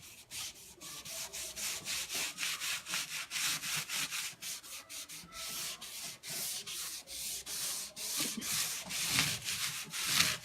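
Rhythmic back-and-forth rubbing strokes on the painted wooden surface of a fireplace mantel, about three strokes a second.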